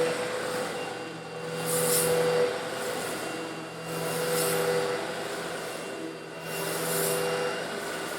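Eureka upright vacuum cleaner running with a steady motor hum, sucking up coarse stone granules that hiss and rattle up the hose in three swells, about every two and a half seconds.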